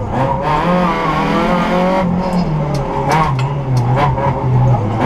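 Peugeot 106 S16 rally car's 1.6-litre 16-valve four-cylinder engine heard from inside the cabin, driven hard at stage pace with the revs rising and falling through gear changes. Sharp knocks come through now and then.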